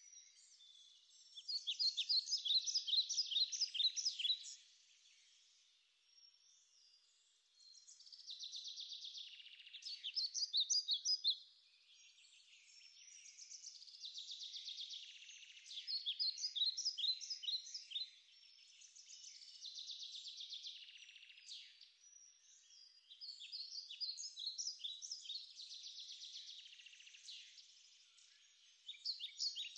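A songbird singing high-pitched song phrases of rapid notes, each a few seconds long and repeated about every five seconds with short pauses between.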